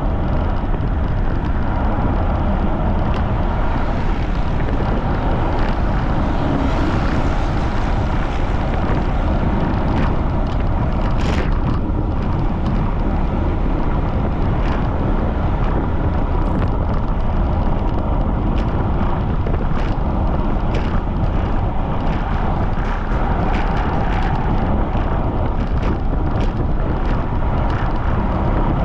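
Wind blowing hard across the microphone of a bicycle ride at speed, a steady loud rush strongest in the low end, with scattered brief clicks.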